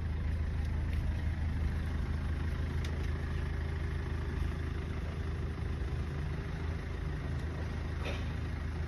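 Tow truck's engine idling steadily, a low, even rumble that does not change.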